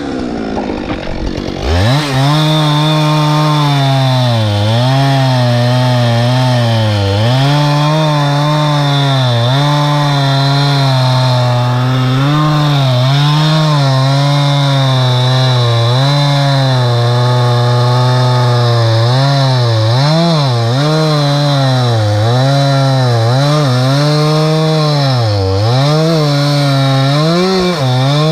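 Two-stroke chainsaw cutting wood at full throttle. It revs back up about two seconds in, then its engine note dips and recovers again and again as the chain loads in the cut.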